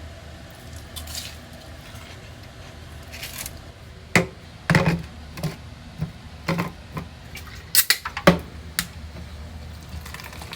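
Cookware and utensils knocking and clinking: a run of sharp knocks and clinks about four to nine seconds in, over a low steady hum.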